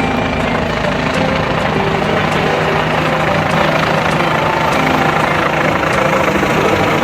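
Helicopter engine and rotor noise, loud and steady, with a low vibrating throb.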